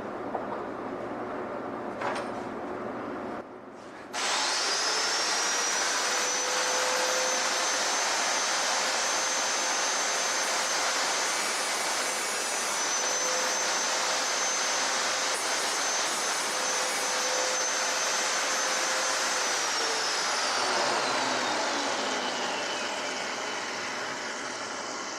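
An electric power tool starts about four seconds in and quickly rises to a steady high whine over a rough, noisy hiss. It runs at full speed for about fifteen seconds, then is switched off, its whine falling slowly as the motor winds down.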